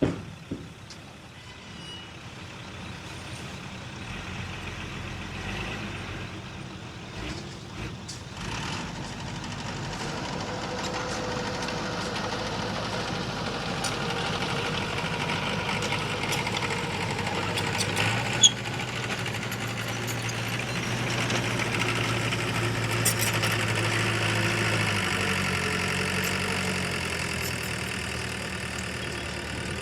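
Diesel engine of heavy earthmoving machinery running. It grows louder over the first ten seconds and holds a steady low hum through the middle, with a single sharp knock about eighteen seconds in.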